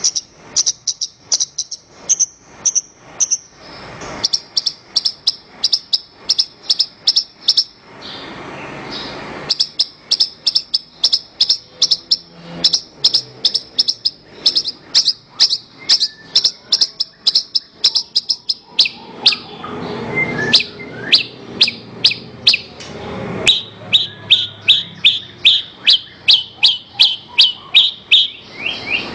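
Javan bush lark (branjangan) singing: a fast, even series of short, high chirps, about three or four a second. Twice it gives way to a stretch of rougher, lower warbling with a rushing hiss underneath.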